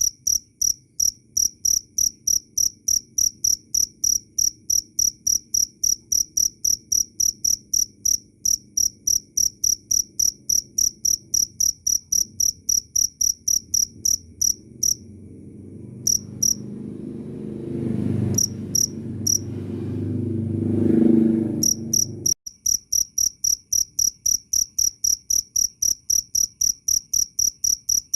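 Cricket chirping in a fast, even rhythm of high, pure chirps, about four a second. Partway through, the chirping breaks off for several seconds while a low rumbling noise swells up and then cuts off suddenly, after which the chirping resumes.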